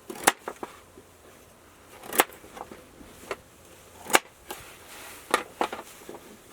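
Knife chopping ingredients on a cutting board: sharp single knocks about every two seconds, with a few fainter clicks between them.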